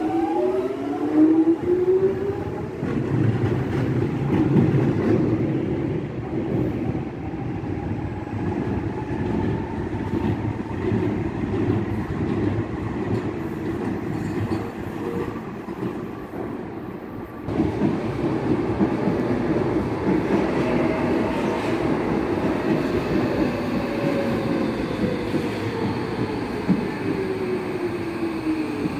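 London Underground Jubilee line 1996-stock train pulling out, its traction motor whine rising in pitch over the first couple of seconds, then the rumble of its wheels as it runs out. After a sudden change about halfway through, a Docklands Light Railway train's motor whine slowly falls in pitch near the end as it draws in.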